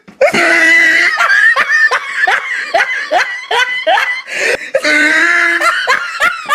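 A person laughing hard: a fast run of short, high-pitched laughs with a few longer drawn-out notes in between.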